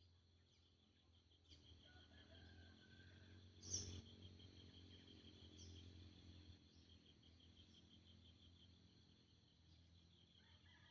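Insects chirring steadily in a pulsing high band over a low hum, with one brief sharp call or knock about four seconds in, the loudest moment, and a faint whistled note shortly before it.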